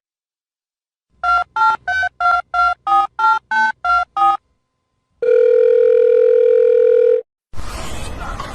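Telephone keypad touch-tones: ten short two-tone beeps dialing a number at about three a second, followed after a pause by a steady phone tone lasting about two seconds.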